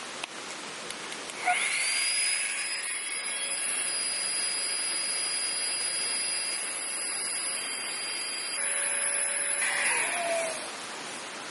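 Small battery-powered electric air pump switched on with a click, its motor spinning up to a steady high whine while it inflates a sleeping mat, then winding down near the end.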